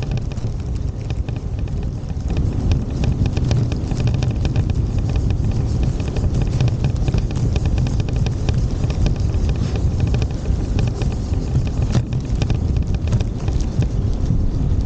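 Steady low rumble of wind buffeting the microphone, with irregular crackling clicks on top.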